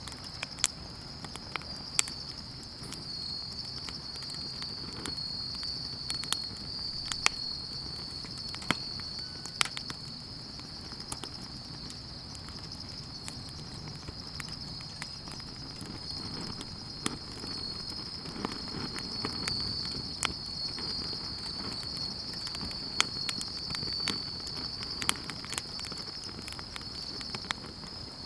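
A steady, high-pitched chorus of night insects, with the irregular pops and crackles of a burning wood campfire scattered over it.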